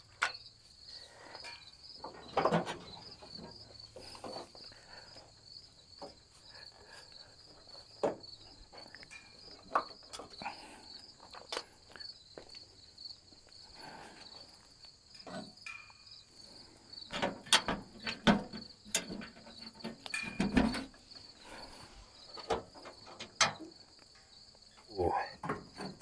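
Scattered knocks and metallic clanks as a broken band-saw blade is pulled out of a Frontier OS27 sawmill's blade housing, busiest in the last third. Crickets chirp steadily throughout.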